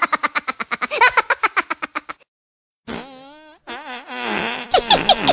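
Comic fart sound effect, a rapid pitched flutter of about ten pulses a second, which cuts out about two seconds in. After a brief gap a wobbling, warbling cartoon tone follows, then squeaky sounds near the end.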